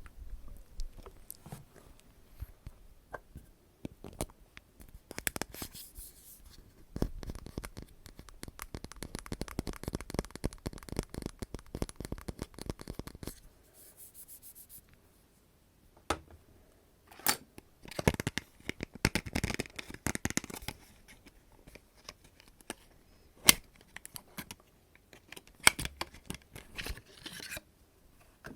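Close-miked ASMR trigger sounds: long bursts of dense, fast crackling and scratching, with a few sharp clicks in between.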